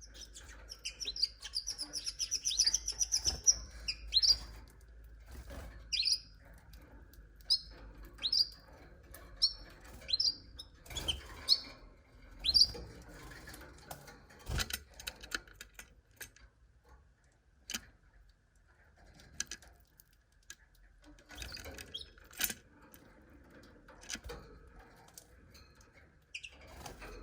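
Domestic canary singing: a rapid high trill about a second in, then single short chirps about once a second. In the second half the calls stop, leaving scattered small clicks and taps.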